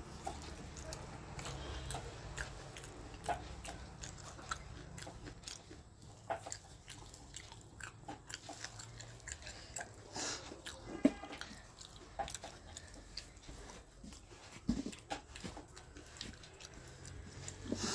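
Someone chewing and eating food close to the microphone, with scattered small clicks and taps.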